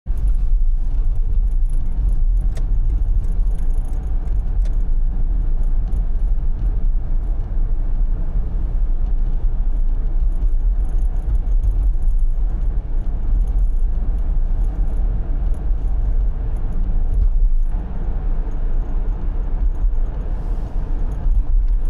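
Car driving on an expressway, heard from inside the cabin: a steady low rumble of road and engine noise, with faint scattered high-pitched rattles.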